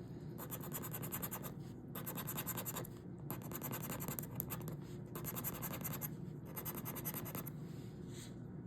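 Scratch-off lottery ticket's coating being scraped off in quick back-and-forth strokes, in about five spells with short pauses between them.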